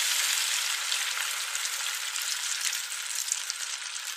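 Chicken and masala sizzling hard in hot oil in a kadhai as water is poured in, the hiss loud at first and slowly dying down, with crackling as the masala is stirred with a ladle.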